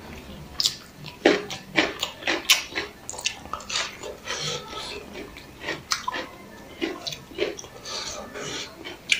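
Close-miked mouth sounds of a person eating vegetable biryani by hand: chewing, lip smacks and wet clicks, irregular and several a second.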